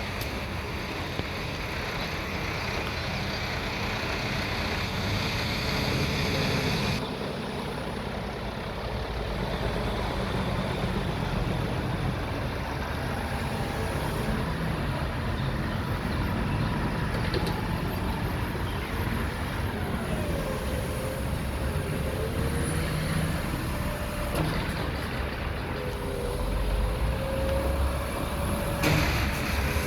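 Mack front-loader garbage truck running while it empties a dumpster, its engine and hydraulics working the lift arms. The pitch rises and falls several times through the second half, and the sound changes suddenly twice.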